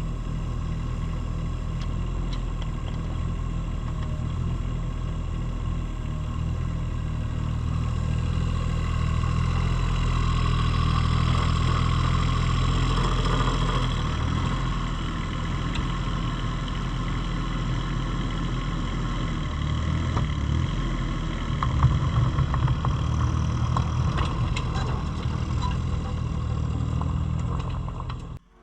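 Engine of digging machinery running steadily under load, with a sharp knock about 22 seconds in. The sound cuts off suddenly near the end.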